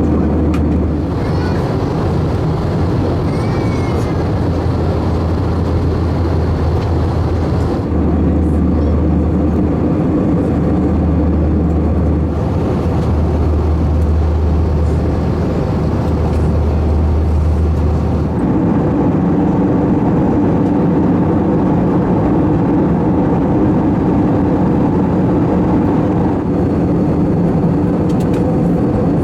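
Airliner cabin noise inside an Airbus A321-231: a steady drone from its IAE V2500 engines and the airflow. A deep low hum underneath stops about two-thirds of the way through, and the drone carries on.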